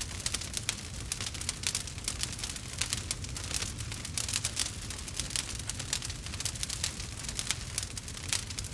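Wood fire in a fireplace crackling: many small, irregular sharp pops and snaps over a low steady rumble.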